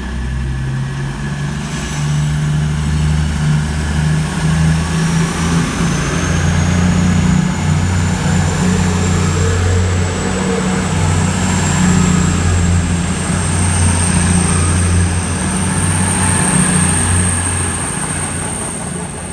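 Class 222 Meridian diesel-electric multiple unit pulling out of the station: a heavy, steady underfloor diesel engine drone with a high whine that rises in pitch as the train gathers speed, the sound falling away near the end.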